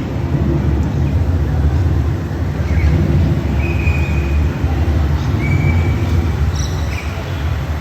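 A steady low rumble, with a few short whistled bird calls over it, one about halfway through and another a little later.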